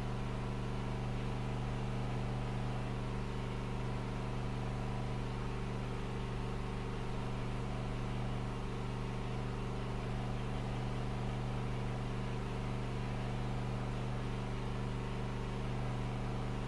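Steady low hum with a buzzy edge, even in pitch and level.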